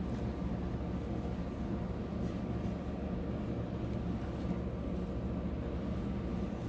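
A steady low hum, even throughout.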